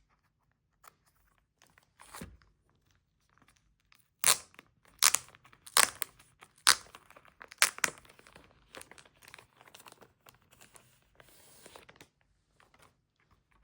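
Plastic shrink-wrap being torn and peeled off a CD album. There are sharp crackling rips from about four to eight seconds in, then softer rustling of the plastic.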